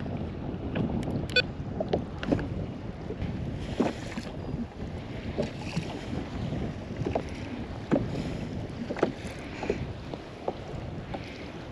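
Water sloshing against a kayak hull with wind on the microphone, and scattered light knocks and clicks.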